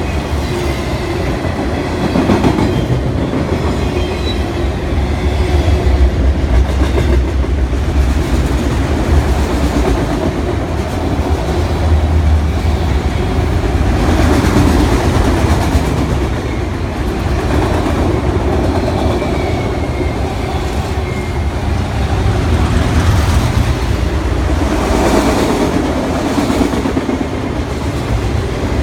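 Freight train of autorack cars rolling past at speed: a steady heavy rumble with the clickety-clack of wheels over rail joints, rising and easing slightly as the cars go by.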